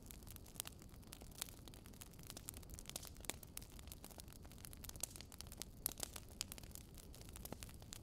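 Wood fire crackling: irregular sharp pops and snaps, several a second with a few louder ones, over a low, steady rumble of flame.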